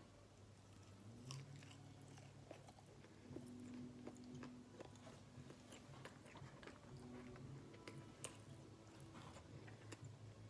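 Faint chewing and biting of food, small scattered mouth clicks over a low steady hum.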